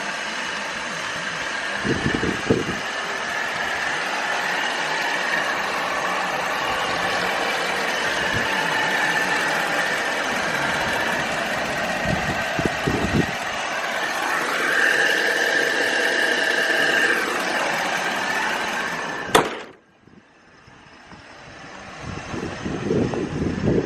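Truck engine running steadily, cut off abruptly about three-quarters of the way through, followed by wind buffeting the microphone.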